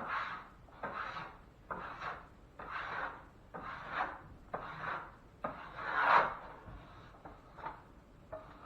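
Repeated scraping strokes of a drywall knife slicking hot-mud joint compound across a ceiling patch, about one stroke a second, the loudest about six seconds in.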